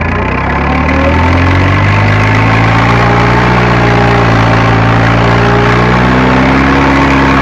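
Fiat Agri tractor's diesel engine running steadily, its revs picking up slightly about a second in and then holding.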